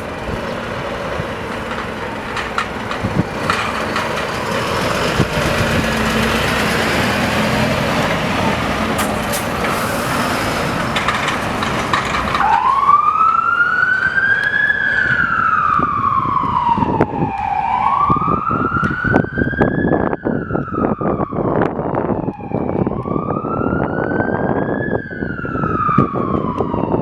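Renault Trucks D16 fire engine's running noise, then about halfway in its siren starts: a slow wail rising and falling about every five seconds.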